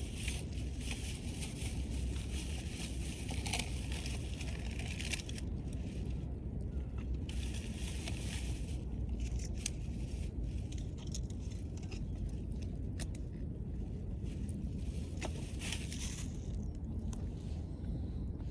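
Wood fire crackling and hissing, with scattered sharp pops over a steady low rumble.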